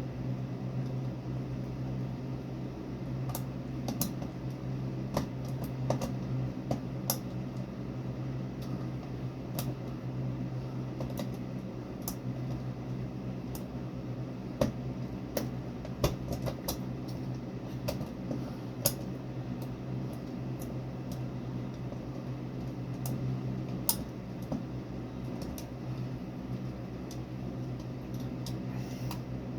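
Scattered light clicks and taps at irregular intervals, as of small parts and tools being handled during light-fixture installation work, over a steady low hum.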